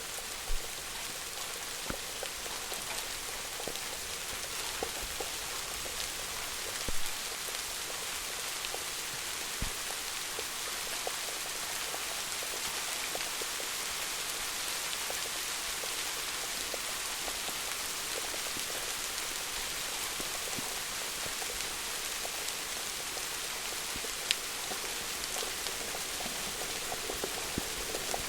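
Steady rain falling, an even hiss with scattered louder drops tapping, a few of them standing out sharply.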